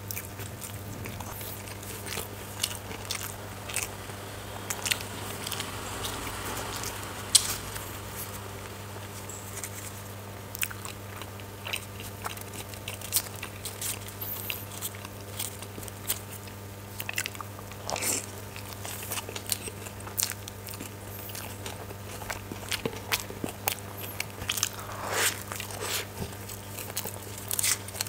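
Close-miked eating: biting into and chewing an egg roll, with many sharp wet mouth clicks and smacks. A steady low hum runs underneath.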